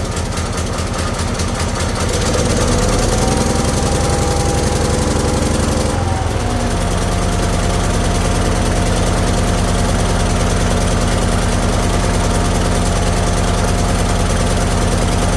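A 214 garden tractor's small engine running steadily just after it has fired up. It settles into an even run about two seconds in. About six seconds in its speed changes slightly, and it holds steady after that.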